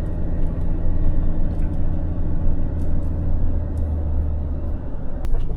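Camper van engine running steadily under load while climbing a steep road, heard from inside the cab as a constant low drone. A single sharp click comes near the end.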